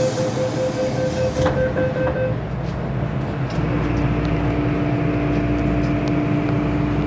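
MTR Kwun Tong Line M-Train: a beeping tone repeats for the first two seconds over a short burst of air hiss. Then the train's running rumble carries on with a steady motor hum from about halfway in.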